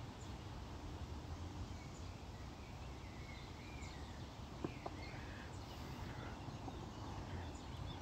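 Birds chirping faintly and intermittently over a steady outdoor background rush, with a couple of soft knocks a little past halfway.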